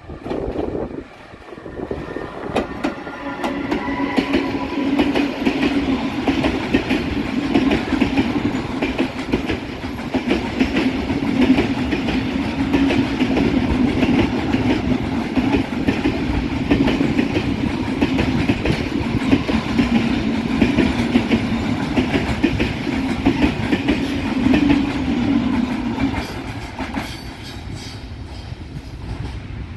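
Train hauled by locomotive 80 005 rolling past, with a steady drone and many rapid wheel clicks on the rails. It builds over the first few seconds and fades near the end.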